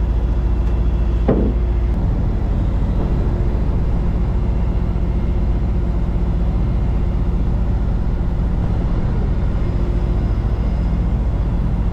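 Peterbilt semi truck's diesel engine running steadily, with one brief knock about a second in.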